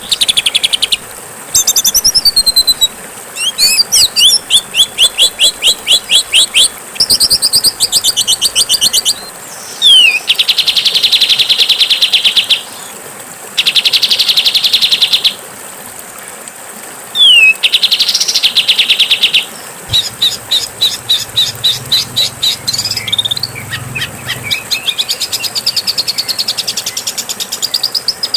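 Songbirds singing a string of loud, harsh phrases: fast trills, rapid runs of repeated notes and buzzy rattles, following one another with short gaps over a steady hiss. This is songbird 'masteran' material, played to teach captive songbirds.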